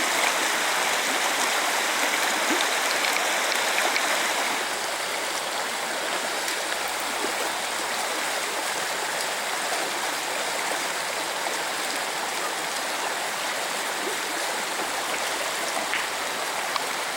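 Fast mountain river rushing over rocks: a steady, full water noise that drops a little in level about four and a half seconds in.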